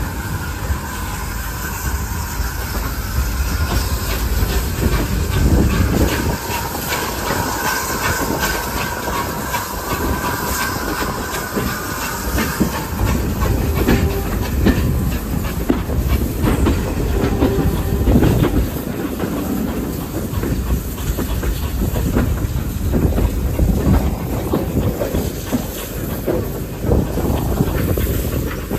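Pannier tank steam locomotive running with a train: a steady hiss of steam over the clatter of wheels on the rails.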